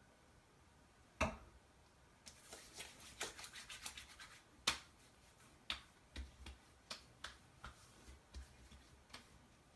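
Aftershave splash being applied by hand: a sharp click about a second in, then a couple of seconds of quick wet rubbing of the hands, followed by a run of light pats and slaps on the face.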